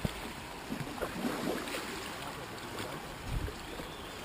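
Water lapping and splashing around a kayak on open water, with a few soft splashes and low knocks.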